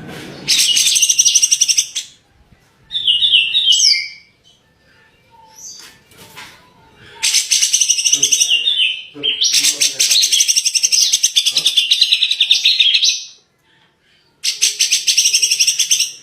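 Cucak jenggot singing in bursts of very fast repeated high notes, each burst lasting one to three seconds with short pauses between. About three seconds in there is one short phrase that falls in pitch.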